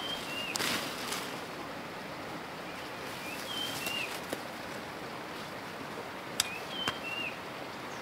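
A songbird repeats a short call three times, about every three seconds: a brief high whistled note followed by a falling slur. Steady outdoor background hiss, with a couple of sharp clicks about two-thirds of the way in.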